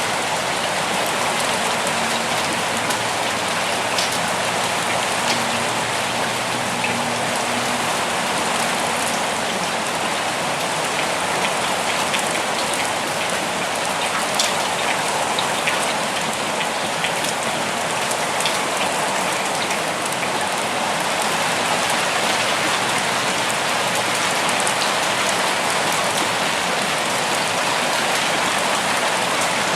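Steady forest rain falling continuously, with scattered louder individual drops striking close by.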